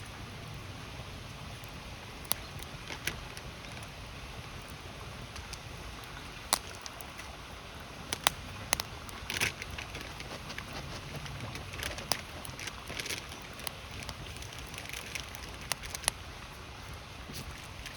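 Wood fire crackling, with irregular sharp pops and snaps over a steady rushing of river water.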